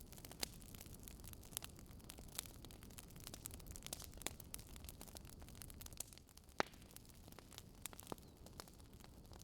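Fireplace fire burning with a low, steady rumble and irregular sharp crackles and pops, several a second, the loudest pops about half a second in and about six and a half seconds in.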